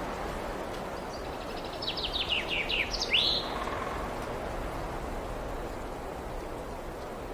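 A songbird sings one short phrase about a second in: a run of quick downward-slurred notes ending in a louder upward sweep, over a steady rushing background noise.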